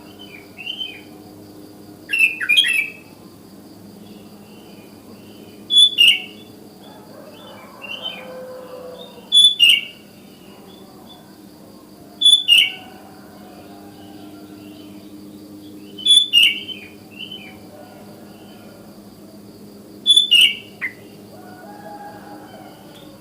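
Sooty-headed bulbul (kutilang) calling in loud, short bubbly phrases about every four seconds, six in all, with fainter calls of other bulbuls answering in between. A faint steady hum runs underneath.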